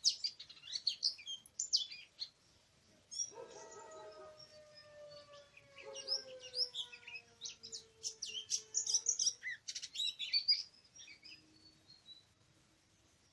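Oriental magpie-robin singing: rapid, varied high chirps and whistles that pause briefly and stop about eleven seconds in. For about six seconds from three seconds in, a separate low tone runs beneath the song, slowly falling in pitch.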